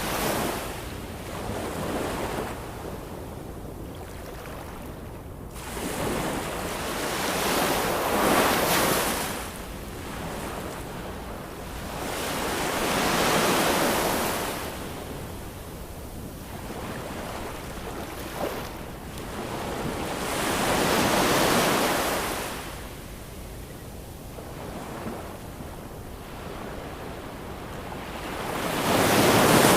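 Ocean waves breaking and washing on a shore, rising and falling in surges every five to seven seconds, the loudest near the end.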